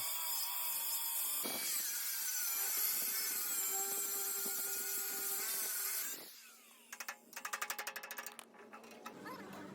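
A power tool working metal runs steadily with high whining tones, then stops about six seconds in. A quick run of rapid clicks follows.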